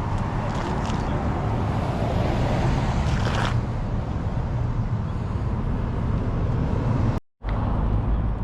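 A vehicle engine idling with a steady low rumble. The sound cuts out completely for a moment near the end.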